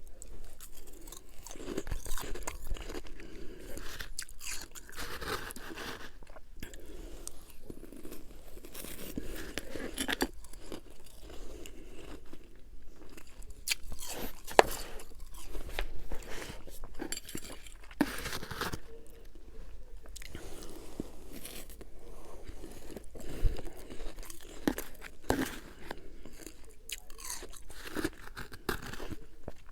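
A person biting and chewing refrozen freezer frost and humidifier frost: irregular crisp crunches as the packed ice breaks between the teeth, with softer chewing in between.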